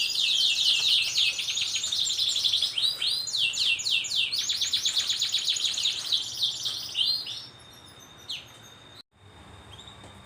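Domestic canary singing a fast, rolling song of rapidly repeated chirps and trills, which stops about seven seconds in.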